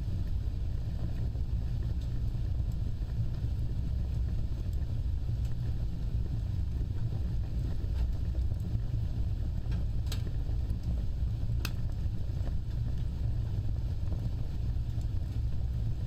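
Wood fire burning with a steady low rumble of flames, broken by a few sharp crackling pops, the clearest two about ten and twelve seconds in.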